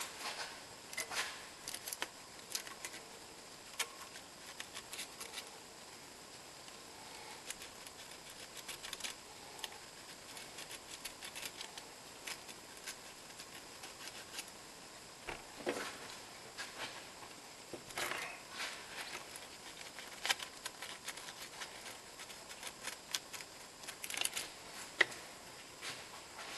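Scattered light clicks, taps and scrapes of hand tools and metal parts being handled while working on an engine, with a few louder knocks.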